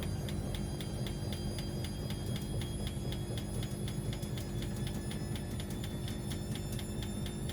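Washing machine running with a steady low motor hum and a fast, even ticking, about four to five ticks a second.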